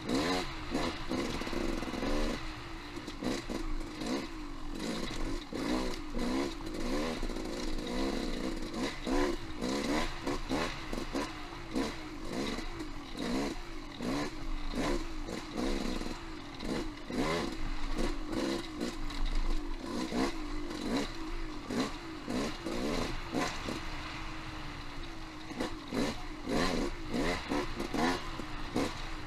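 Off-road motorcycle engine revving up and down in quick, repeated surges, with frequent clattering knocks from riding over rocky trail.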